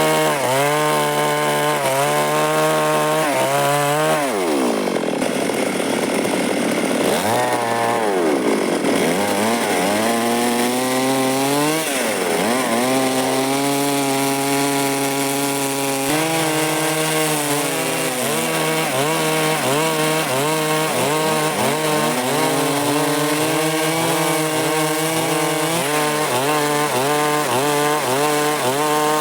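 Stihl MS 382 two-stroke chainsaw with a 24-inch bar running hard while cutting wood. Its engine pitch drops sharply and climbs back about four, seven and twelve seconds in, then holds high with small dips under load.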